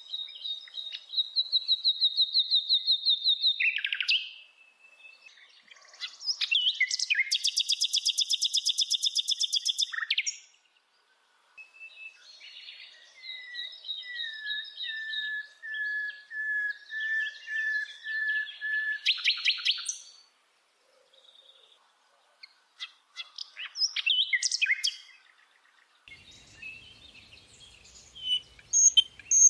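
A bird singing in phrases of fast trills and rapidly repeated chirps, each phrase a few seconds long, with short pauses between them.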